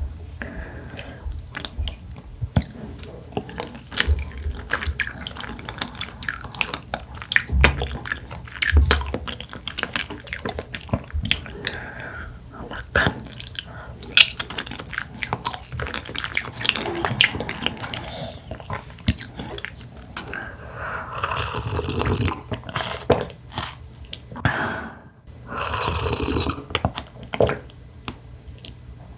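Close-miked chewing of food, a steady run of short wet clicks and mouth sounds, with a few longer noisy stretches in the second half.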